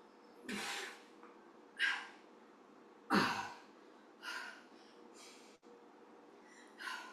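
A person breathing hard under exertion: short, forceful breaths out about once a second during an intense strength-and-cardio exercise, two of them with a low thud underneath.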